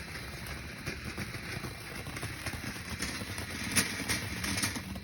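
Firework burning with a steady hiss and irregular crackling, with one sharp pop near the end.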